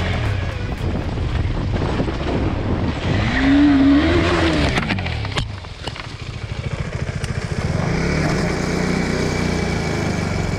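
KTM 390 Adventure's single-cylinder engine running under way, revving up and back down about three to five seconds in, then running steadily at low revs with even firing pulses.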